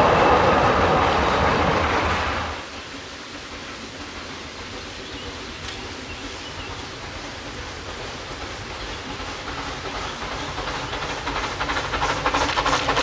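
Groudle Glen Railway narrow-gauge train running: a loud rushing noise drops off sharply about two and a half seconds in, and near the end the sound builds again into a quick, regular clatter.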